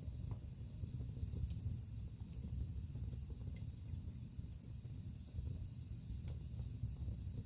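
Wood fire burning in a fireplace: a low steady rumble of flames with scattered sharp crackles and pops from the burning logs, the loudest pop about six seconds in.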